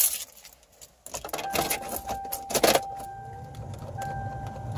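Car keys jangling at the ignition of a 1993–97 Toyota Corolla. A steady electronic warning tone comes on about a second and a half in, and a low hum builds from about three seconds in as the ignition is switched on before cranking.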